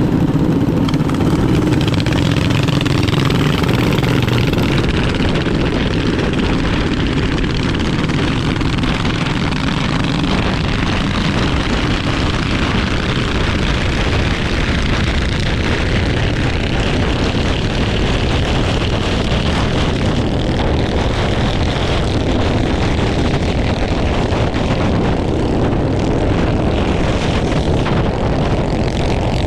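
Minibike engine running steadily under way, with a constant rushing noise from riding.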